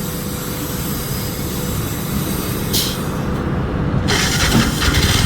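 Compressed natural gas hissing from a filling-station dispenser nozzle over a steady engine and traffic rumble: a short hiss about three seconds in, then a stronger hiss of over a second near the end.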